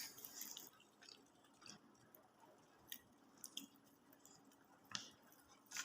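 Faint close-up chewing: soft mouth clicks and smacks every second or so.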